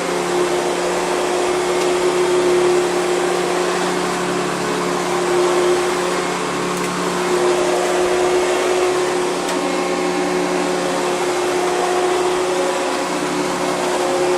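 Hoover Convertible upright vacuum cleaner running steadily over carpet with an even whine, picking up debris left behind by another vacuum.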